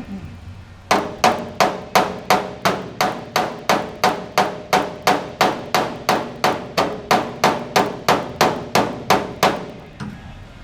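Steady series of hammer blows on a Ford F-150's bedside sheet-metal panel, about three ringing strikes a second for some eight seconds: the panel being tapped out from behind to raise a dent.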